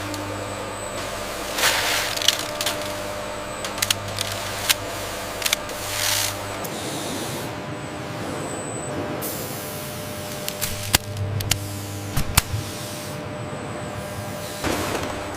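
Factory machinery running: a steady hum with short hisses and scattered sharp clicks, typical of a packaging line.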